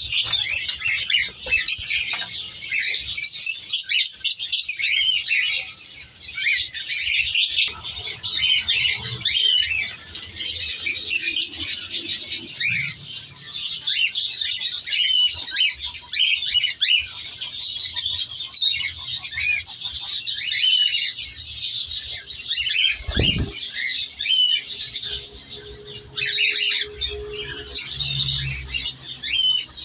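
A colony of cockatiels chirping and calling together: a dense, continuous chatter of short high calls. A single low thump comes about three-quarters of the way through.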